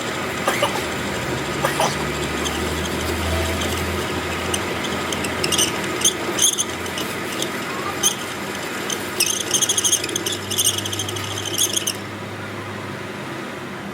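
Workshop machinery running steadily, with scattered sharp metallic clicks and a stretch of rapid scraping clatter about two thirds of the way in that stops suddenly.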